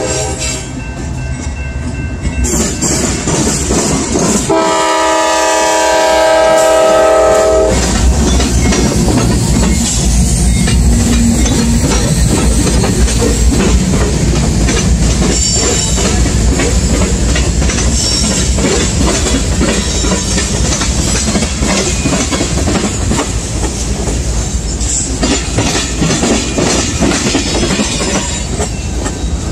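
CSX freight train passing a grade crossing. The lead GE diesel locomotive sounds one long horn blast about five seconds in, then the freight cars rumble by with a steady clickety-clack of wheels over the rail joints.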